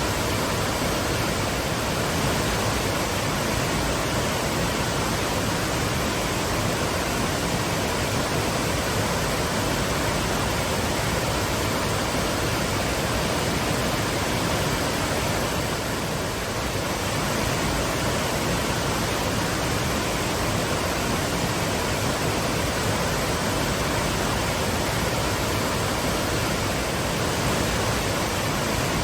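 Waterfall pouring, a dense steady rush of falling water with no change in level.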